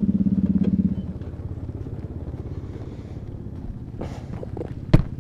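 Motorcycle engine running with a steady note that drops off after about a second, leaving a lower, quieter rumble. A single sharp knock comes near the end.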